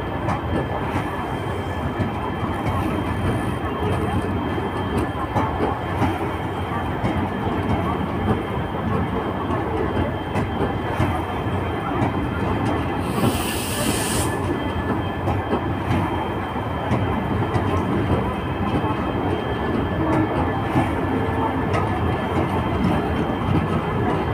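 Passenger coaches of an express train pulling out of the station and rolling past, wheels rumbling steadily on the rails with a run of clicks over the rail joints and a faint high whine. A short hiss about 13 seconds in.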